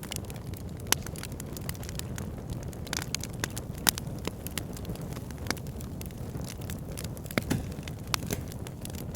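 Backyard fire pit burning: a steady low rumble of flames with irregular sharp crackles and pops from the burning wood, a few louder pops standing out.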